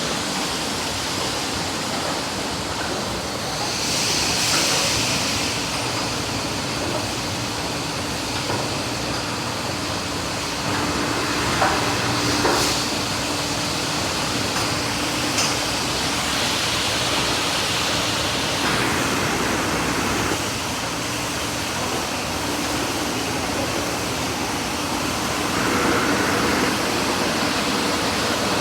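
Car wash tunnel equipment spraying water over a car: a steady rush of spray that swells into louder hissing passes several times, with a few sharp knocks along the way.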